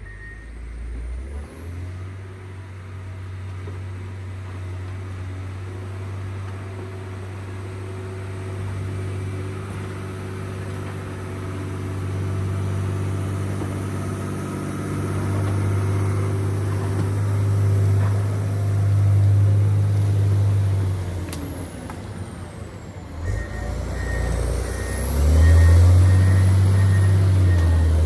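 John Deere 670GP motor grader's diesel engine running under working load, its steady note growing louder over the stretch, dipping briefly and then coming back louder near the end.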